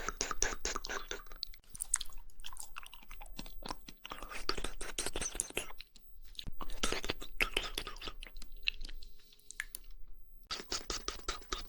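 Close-miked mouth sounds of eating jelly: wet chewing, squelching and lip smacks, coming in quick clusters with brief pauses between them.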